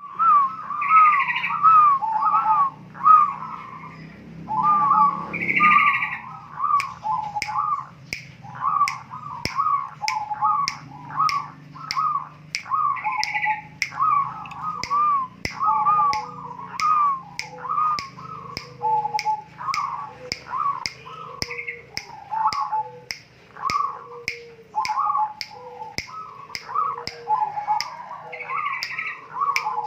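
A bird calling in runs of short, harsh, repeated notes, the 'kowar kowar' call, rather than a full song. From about seven seconds in, steady sharp clicks come about twice a second under the calls.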